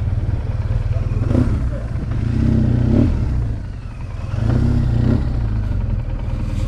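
BMW R 1200 GS flat-twin motorcycle engine with an SC Project aftermarket exhaust running under way, its pulsing low rumble swelling twice as the throttle opens.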